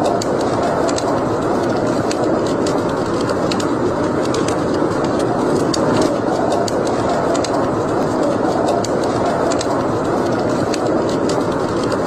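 Wood fire burning in a fireplace: a steady rushing sound with frequent small, irregular crackles and pops.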